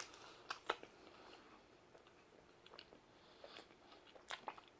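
Faint mouth sounds of a man chewing pizza close to the microphone: scattered soft smacks and clicks.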